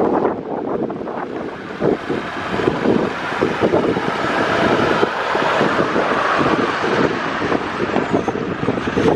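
Wind buffeting the microphone over a steady rush of road traffic.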